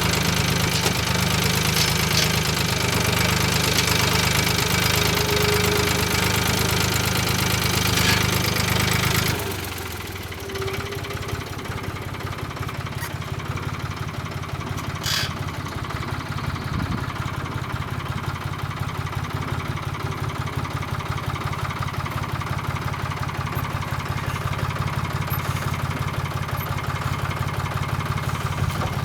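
Tractor engine running at high revs, then throttled back suddenly about nine seconds in, and settling into a steady, lower idle for the rest.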